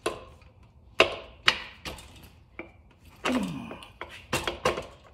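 Hand tools and motorcycle front-end parts being handled: a string of irregular sharp knocks and clicks, with a quick cluster of them near the end.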